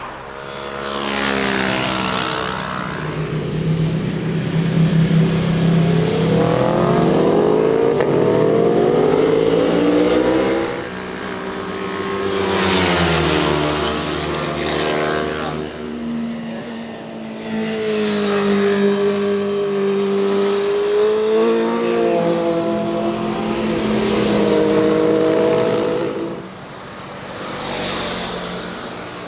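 Several motorcycles riding past one after another, their engines revving and rising in pitch as they accelerate, each swelling up and fading as it goes by.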